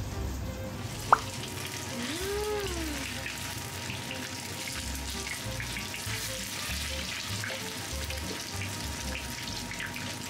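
Koya-dofu (freeze-dried tofu) pieces shallow-frying in oil in a frying pan: a steady crackling sizzle. About a second in there is a single sharp tap, the loudest moment, and soon after a short tone that rises and then falls.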